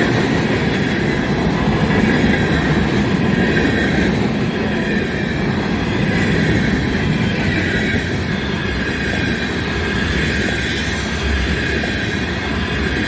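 Freight cars of a CN mixed-freight train rolling past close by, a steady loud rumble of wheels on rail, with tank cars among them.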